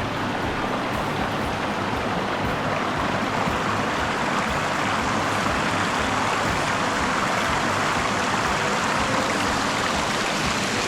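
Ozone Falls, a waterfall, making a steady rushing of falling water that grows a little louder a few seconds in.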